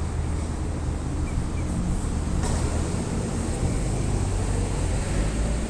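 Steady low rumble of outdoor background noise, with a faint click about two and a half seconds in.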